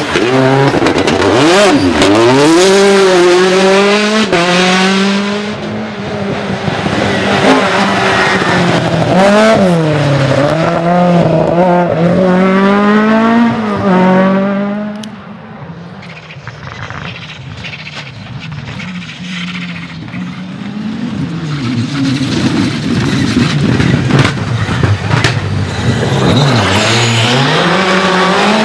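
Rally car engines at full throttle, revving up and dropping through rapid gear changes as the cars are driven hard. The engine sound fades to a quieter stretch about halfway through, then builds again near the end as another car approaches and revs up.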